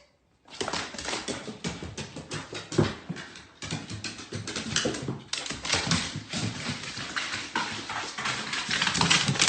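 A dog, with rapid, irregular clicking and scratching noises.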